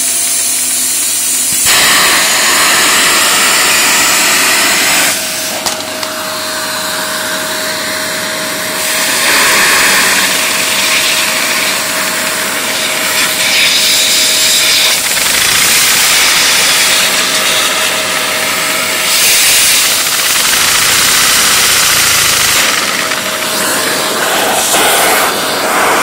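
Two-cylinder Lego overhead-valve vacuum engine running on suction, with a loud rush and hiss of air and a thin steady whine. The air noise swells about two seconds in, eases for a few seconds, then swells again.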